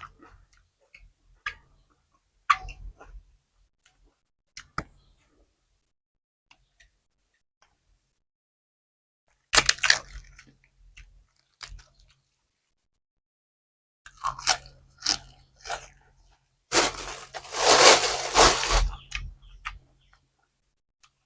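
Close-up eating sounds from a meal of pork tendon meatballs and crisp banana peppers: chewing and crunching in scattered bursts, with faint clicks at first and the longest, loudest crunching near the end.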